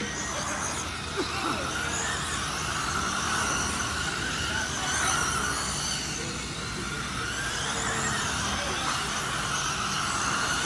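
Electric RC sprint cars, a Losi 22S among them, running laps: several motors whining together, their pitch rising and falling as the cars accelerate and lift off around the oval.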